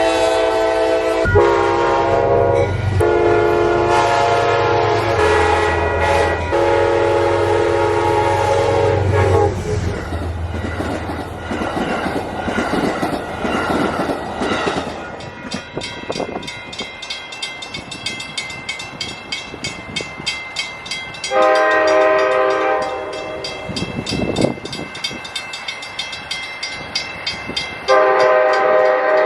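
Amtrak train's air horn sounding a chord in several long blasts as the train approaches. The train then passes with wheels clacking over the rail joints in a quick even rhythm, and the horn sounds twice more, about two-thirds of the way in and near the end.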